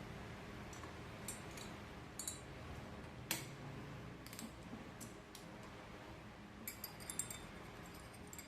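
Light metallic clicks and clinks at uneven intervals, from hand tools and small engine parts being handled, over a low steady hum. A quick cluster of clicks comes near the end.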